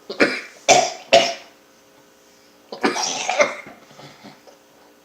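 A person coughing: three short coughs in quick succession, then after a pause a longer cough about three seconds in.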